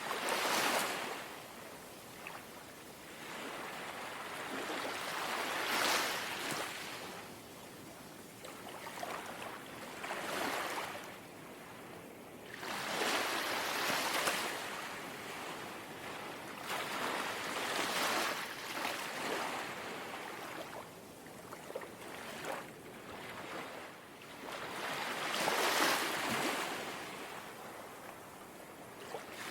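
Small, gentle sea waves lapping at the shore, each one swelling into a soft wash and falling back, about every four seconds.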